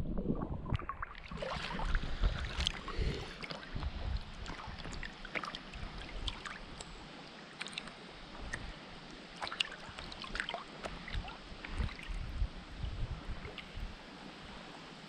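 Lake water splashing and lapping, with many small, irregular splashes.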